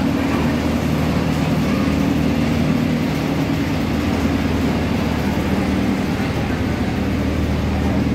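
Miniature amusement-park train pulling into the platform, its passenger coaches rolling past with a steady low mechanical drone.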